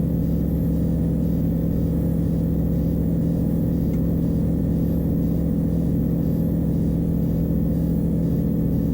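Van's RV-12's Rotax 912 four-cylinder engine and propeller running steadily at full takeoff power, a loud, even drone with a strong low hum that holds one pitch.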